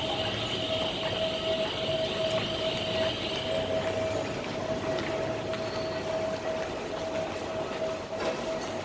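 Electric train running at the elevated station, with a steady whine over a rumble of rail noise; a higher whine drops out about four seconds in.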